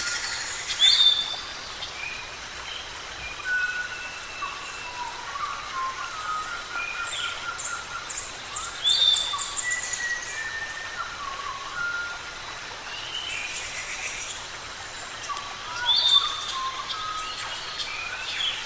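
Several forest birds calling at once: a mix of whistles, chirps and trills over a steady hiss. A loud, sharp downward-sliding call comes about a second in, again around nine seconds and again around sixteen seconds, and a quick run of high falling notes comes around seven to nine seconds.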